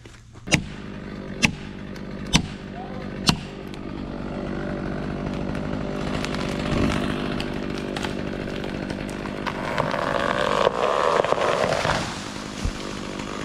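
Four sharp knocks, about a second apart, then a chainsaw running steadily, growing louder near the end, as when it bites into the trunk, before easing off.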